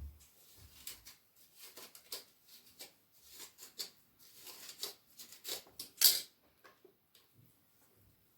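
Hands working wet conditioner through hair, making irregular scratchy rustling. The loudest stroke comes about six seconds in.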